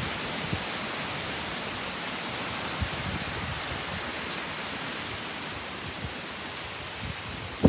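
Strong wind blowing, a steady rushing hiss with a few faint low buffets.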